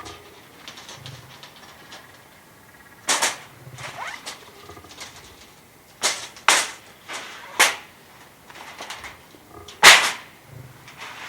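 A series of sharp cracks and knocks, about five at irregular intervals, the loudest near the end.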